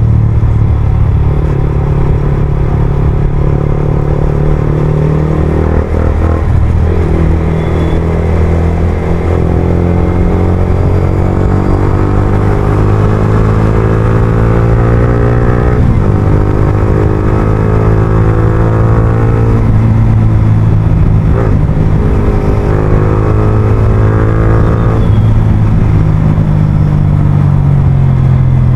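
Yamaha R15M's single-cylinder engine through an Akrapovič full-system exhaust, pulling under way: its note rises steadily and drops sharply at each upshift, about four times.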